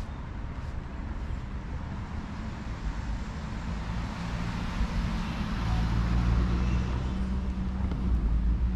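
Street traffic, with a motor vehicle's engine running close by; its low hum grows louder about halfway through, over the steady wash of road noise.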